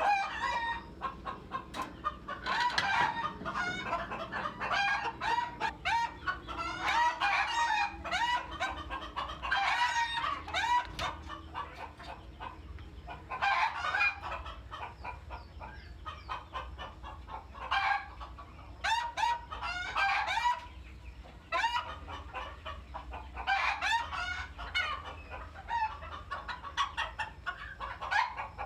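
A flock of fancy bantam chickens clucking and calling over one another, with roosters crowing, in repeated bursts.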